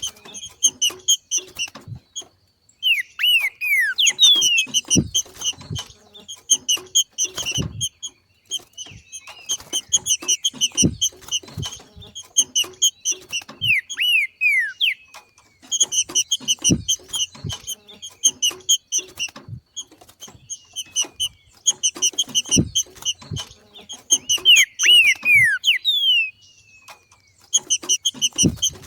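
Green-winged saltator (trinca-ferro) giving its macheado call: bursts of rapid, high chattering a few seconds long with short gaps, mixed with quick falling whistled notes. Scattered low knocks run under it.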